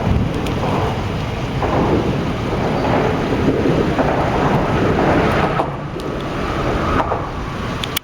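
Gusty storm wind buffeting the microphone: a loud, continuous low rumble that surges and eases, dropping away suddenly at the very end.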